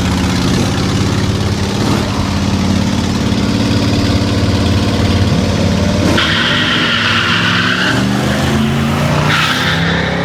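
Drag-racing car engines running loudly and revving, their pitch stepping up and down, with tyre squeal in two stretches in the second half: one of about two seconds starting a little past six seconds in, and a shorter one near the end.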